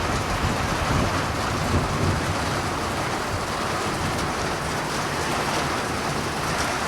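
Steady rain pouring down, with an uneven low rumble underneath.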